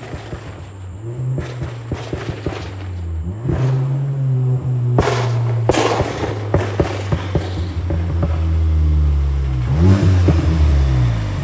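Volkswagen Mk8 GTI's turbocharged 2.0-litre four-cylinder running through an XForce valved catback and catless downpipe, its exhaust note rising and falling with the revs. Crackles run throughout, with several loud pops about halfway through.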